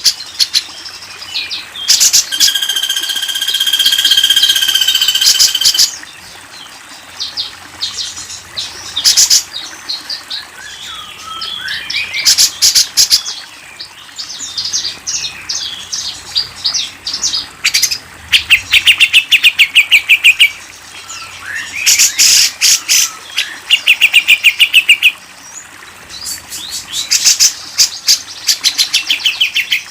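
Recorded songs of several Indonesian songbirds in a masteran mix for tutoring caged birds: a long held whistle early on, then varied whistled phrases and fast rattling trills of rapidly repeated notes.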